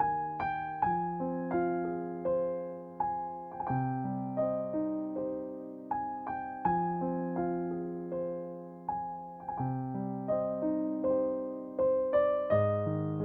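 Slow, gentle solo piano music: notes and chords struck one after another, each ringing and fading before the next.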